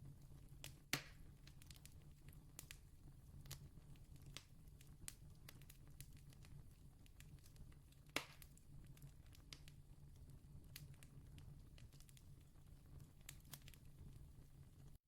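Distant campfire crackling faintly: scattered small pops over a low steady rumble, with two sharper pops about a second in and about eight seconds in.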